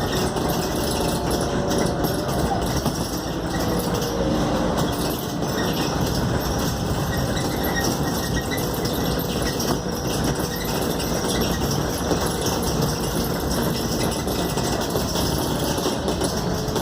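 Scania K280UD double-decker bus heard from inside the passenger cabin while under way: a steady diesel engine and road rumble, with a faint drivetrain whine that drifts slightly up and down in pitch.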